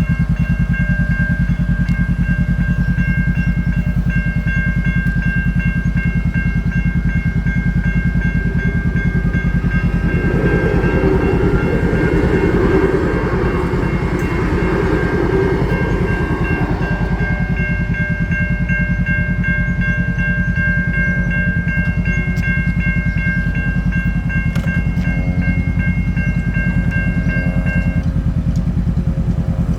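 Railway level crossing warning bells ringing in a fast, steady pattern while a train passes through the crossing, its rumble loudest in the middle. The bells stop near the end.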